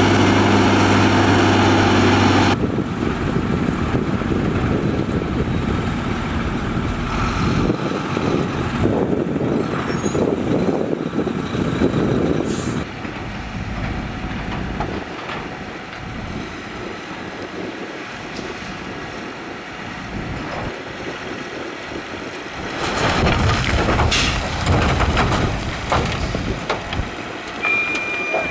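Heavy road-construction machinery working: diesel engines running with rumble and clatter. A steady engine drone cuts off abruptly about two and a half seconds in, and a louder spell of knocking and clattering comes near the end.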